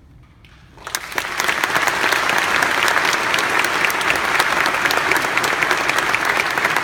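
Audience applause at the end of a choral piece. After a brief lull it starts about a second in and continues as steady clapping.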